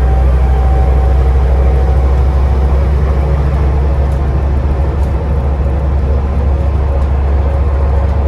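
Scania Enviro 400 double-decker bus under way, heard from inside the lower deck: a steady low engine drone with a thin steady whine above it, the bus's turbo whistle.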